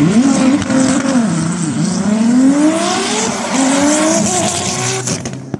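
Car engine at full throttle accelerating down a drag strip, its pitch climbing steeply, dropping at gear shifts about one and two seconds in and again past three seconds, then climbing again. The sound cuts off suddenly near the end.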